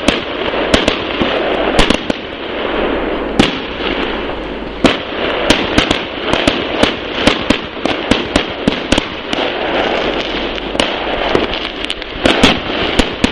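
Fireworks going off: many sharp bangs and pops in quick, irregular succession over a continuous crackle, with a cluster of louder bangs near the end.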